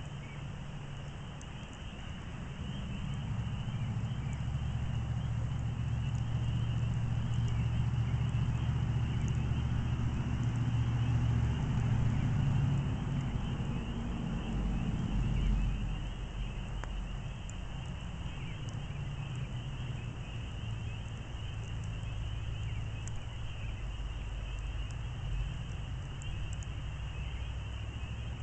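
Backyard campfire crackling faintly in sparse sharp ticks, over a low rumble that swells over the first few seconds and drops away about halfway through, with a steady high-pitched hum underneath.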